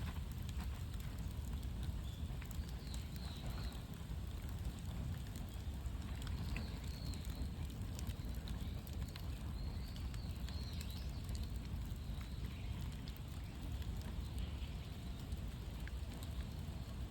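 Bonfire of cut bamboo crackling: scattered small pops and ticks over a steady low rumble.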